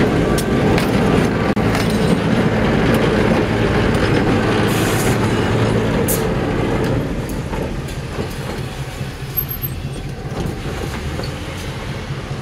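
Diesel locomotive passing close by, its engine running and its wheels clicking over the rail joints. The sound drops off about seven seconds in as the train moves away.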